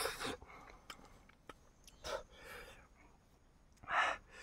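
Close-up chewing of chicken: soft, irregular wet mouth noises with a few small clicks, then a short audible breath near the end.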